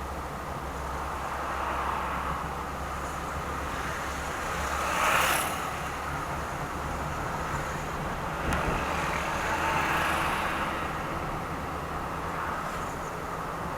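Car driving in traffic: steady engine and road noise, with a louder whoosh that swells and fades about five seconds in and a sharp click a few seconds later.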